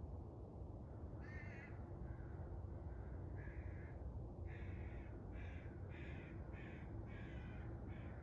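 A bird giving a series of short, harsh calls, about eight in all, sparse at first and coming in a quicker run through the second half, over a steady low background rumble.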